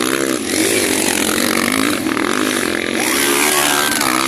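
Motocross motorcycle engines revving hard, their pitch rising and falling with throttle and gear changes as the bikes race.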